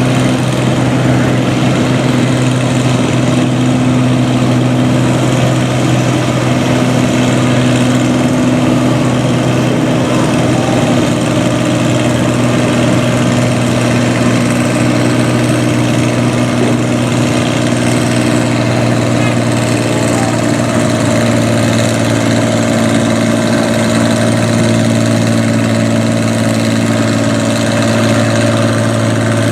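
Farm tractor diesel engine idling steadily, holding an even pitch with no revving.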